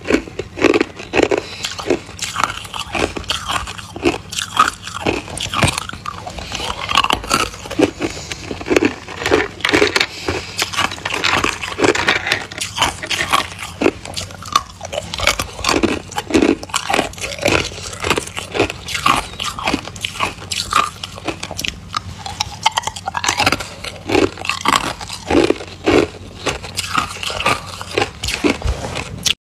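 Ice being bitten and chewed close to the microphone: a continuous run of irregular, sharp crunches.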